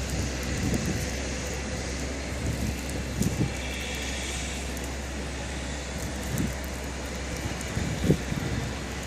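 Steady outdoor rush of snowstorm wind over a low rumble, with a few short gusts buffeting the microphone.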